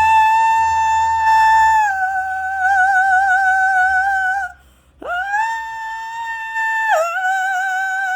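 A voice making a piercing, very high drawn-out sung note twice: each time it holds a high pitch, then drops a step lower into a wavering vibrato, with a short break about halfway through.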